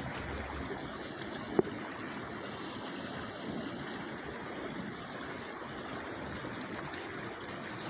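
Rainwater rushing steadily into a street sewer drain during heavy rain, with a brief knock about a second and a half in.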